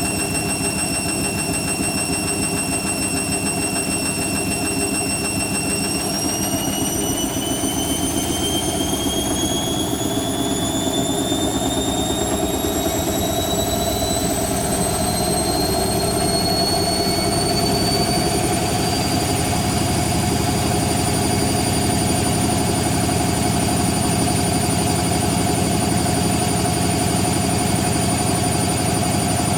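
Hoover Quattro AE130 washing machine spinning up. The motor's whine holds steady at first, then climbs in pitch for about fourteen seconds as the drum speeds up, and settles at spin speed.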